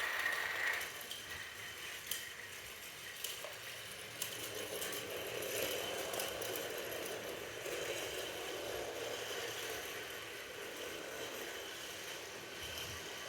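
Battery-powered toy train running along its track, a steady small-motor whirr and rattle with a few light clicks.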